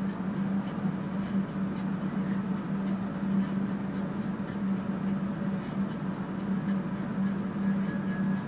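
Electric fans running with a steady hum and rushing air. A few faint light ticks sound over it.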